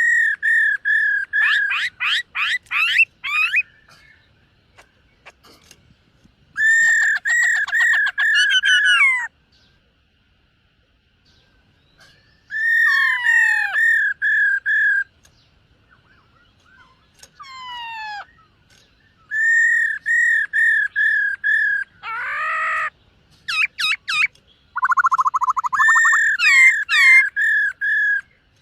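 Black-throated laughingthrush singing loudly in phrases a few seconds long with short pauses between them. Each phrase is a run of clear, evenly repeated whistled notes mixed with quick sweeping notes that rise and fall.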